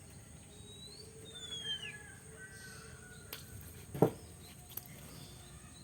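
A bird whistling a few short notes that glide up and then down, with a sharp knock about four seconds in and fainter clicks around it.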